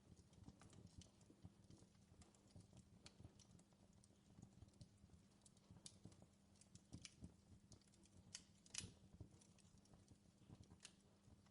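Faint crackling of a wood fire in a fireplace: irregular small pops and snaps, with a sharper snap about three quarters of the way through, over a low steady hum.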